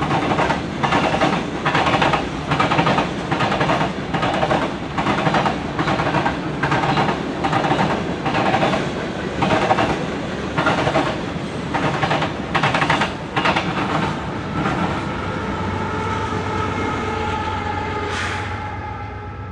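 Loaded covered hopper cars of a sand train rolling past, their steel wheels clacking over the rail joints in a steady rhythm. About three quarters of the way through, the clacking stops as the end of the train goes by, leaving a steady hum with a faint ringing tone that fades away.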